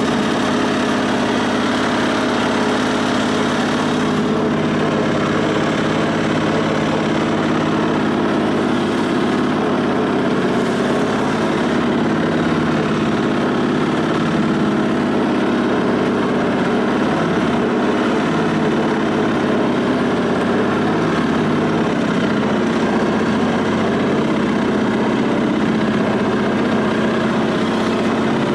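1974 Sears SS/16 garden tractor's twin-cylinder engine running steadily at an even speed.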